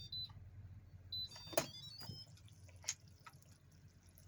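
Instant Pot lid being unlocked and opened after pressure cooking: a few plastic clicks and knocks and a brief run of high electronic beep tones, over a low steady hum.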